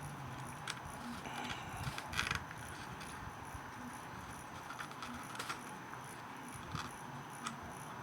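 Scattered faint clicks and taps of small tools and parts being handled during fine soldering work on a model locomotive's light wiring, over a steady faint hiss.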